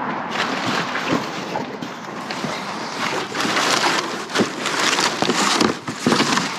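Rummaging through garbage in a dumpster: irregular rustling and crinkling of bags and trash, with scattered knocks of objects being moved.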